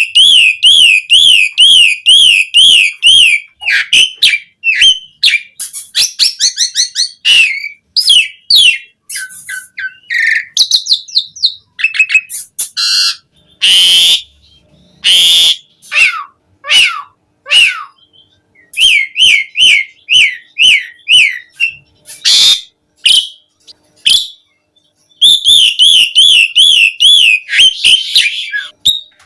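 Asian pied starling (jalak suren) singing a long, varied song of rapid warbling whistled trills, short whistles and slurred glides. Harsh scratchy calls come around the middle. Phrases are broken by short pauses, and the fast trill returns near the end.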